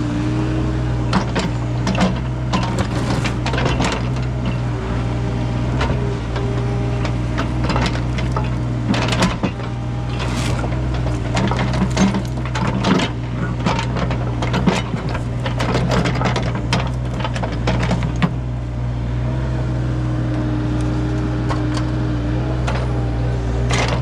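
Excavator engine running steadily under load while the bucket digs, with frequent knocks, clanks and scrapes as it works through buried debris and trash.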